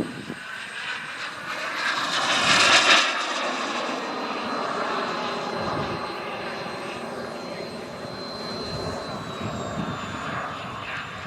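Small gas-turbine engine of a radio-controlled BAE Hawk model jet in flight, making a pass: the roar and high whine swell to a peak about two to three seconds in, then slowly fade as the whine slides lower in pitch.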